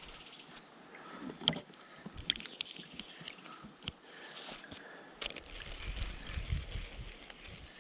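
Quiet scattered clicks and knocks from a kayak and its fishing gear on the water, with low thumps of the hull from about five seconds in.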